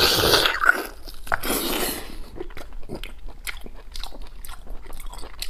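Close-up mouth sounds of a man biting boiled rib meat off the bone and chewing it. Two louder bites in the first two seconds, then quick, irregular wet smacking as he chews.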